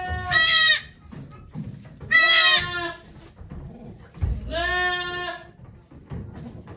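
A goat bleating: three drawn-out calls about two seconds apart.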